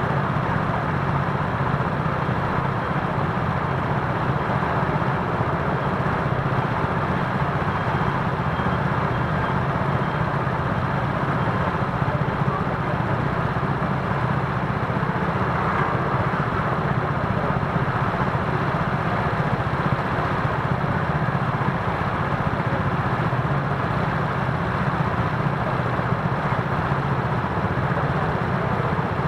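Steady road and traffic noise heard from a moving electric scooter in city streets, with the engines of surrounding cars and trucks running in the mix.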